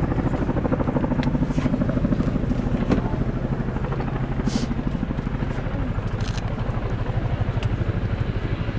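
Royal Air Force Boeing Chinook HC6 tandem-rotor helicopter flying low, its two rotors beating in a rapid, steady chop over the hum of its twin engines.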